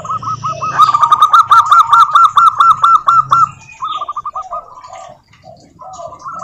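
Zebra doves (perkutut) singing: rapid runs of repeated cooing notes, several a second, loud for the first few seconds and then weaker, with a second, lower-pitched series of notes joining in the second half.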